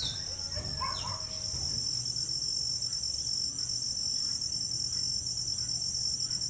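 Chorus of insects such as crickets: a steady high-pitched trill that pulses rapidly, with a couple of short rising chirps near the start.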